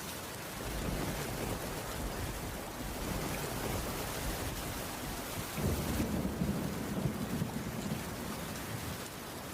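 Heavy rain falling steadily. A low rumble swells a little past halfway and fades again near the end.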